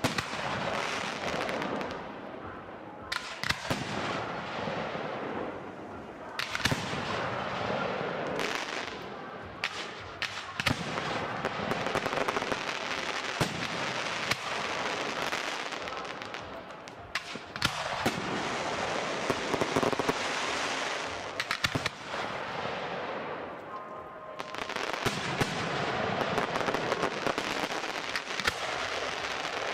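Aerial firework shells bursting, with many sharp bangs in quick succession over long stretches of dense crackling that swell and fade every few seconds.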